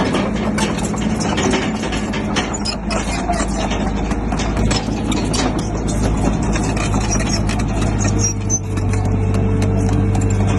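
Bulldozer's diesel engine running, with repeated clanking and clattering throughout. About eight seconds in, the engine settles into a steadier, stronger hum.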